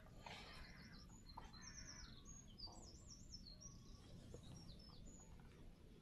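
Near silence with faint birdsong: a small bird repeating quick, high chirps and short down-slurred notes over a low, steady hiss.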